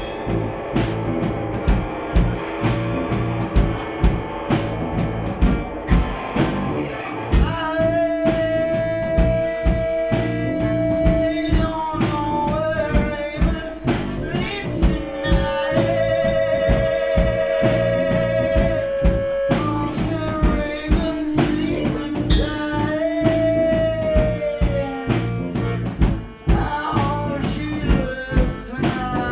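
Gypsy rock band of accordion, guitar, bass and drums playing live over a steady drum beat. From about seven seconds in, a melody line of long held notes comes to the front.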